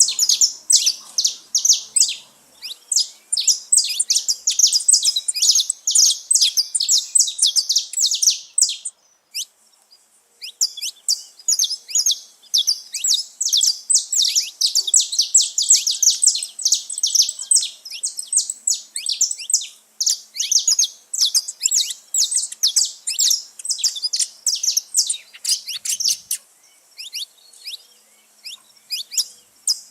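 A group of saffron finches (canário-da-terra) singing and chirping in fast runs of high, sharp notes. The song breaks off briefly about nine seconds in and thins out again near the end.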